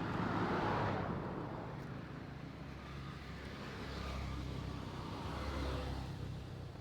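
Road traffic: cars passing, one about a second in and another around four to six seconds in, over a steady low engine hum.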